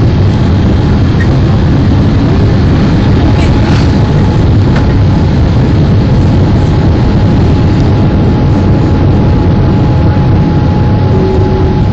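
Loud, steady low rumble and rush of air heard inside a Boeing 787 Dreamliner's cabin with the engines at takeoff power, with a thin steady whine over it.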